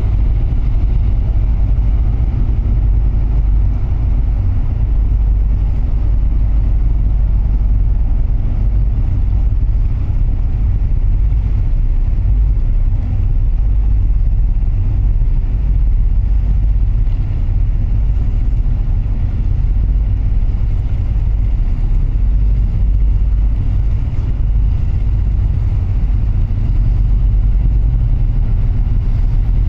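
Passenger ship's engines running with a steady low rumble, with water noise over it.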